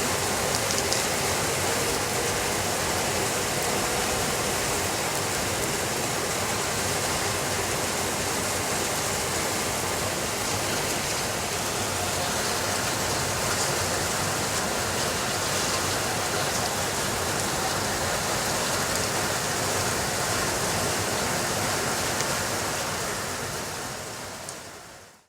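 Steady rainfall, an even hiss with no thunder, fading out near the end.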